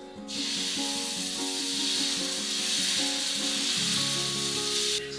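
A loud, steady hiss that starts suddenly and cuts off abruptly near the end, over background music with sustained notes.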